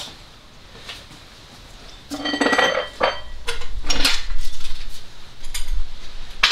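Steel garage equipment being handled: loud metallic clanking and clinking with a ringing edge, starting about two seconds in and going on in irregular bursts.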